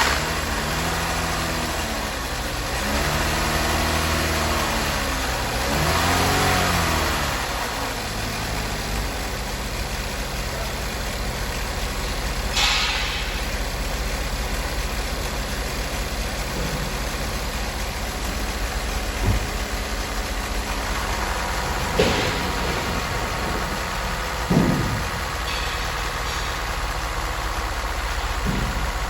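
Lacrosse engine on a test run: revved up and back down three times in the first several seconds, then running steadily at idle, with a few short sharp noises along the way.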